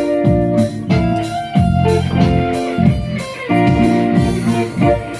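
Instrumental band music led by a plucked electric guitar over bass and a steady beat, with no singing.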